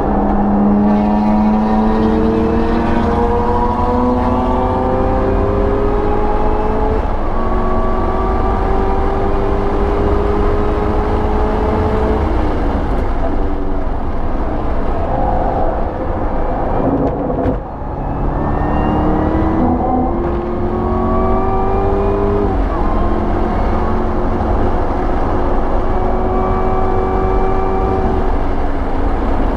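The supercharged 6.2-litre LT4 V8 of a 2019 Camaro ZL1 1LE is heard from inside the cabin at wide-open throttle. Its pitch climbs through the gears with an upshift, and the car goes from about 75 mph to over 130 mph. About seventeen seconds in the engine briefly lifts and dips, then pulls again and holds high revs, with wind and road noise underneath.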